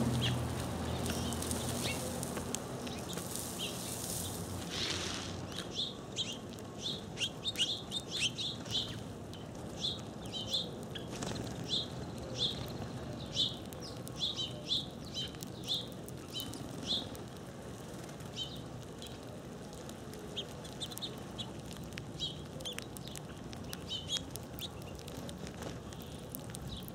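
Small birds chirping in short, high, repeated chirps, thickest from about six to seventeen seconds in, with scattered light ticks and wing flutters from a mixed flock of doves and finches feeding on seed.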